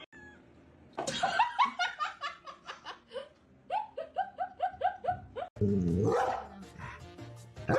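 A dog barking and yipping in a quick run of short, high calls, about two a second, followed by a sudden switch to a louder jumble of sound.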